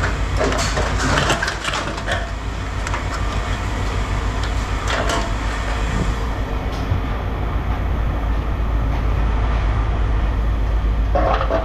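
Steady low rumble of running machinery, with scattered clanks and clinks of scrap metal being handled and dropped: several in the first two seconds, another about five seconds in, and more near the end.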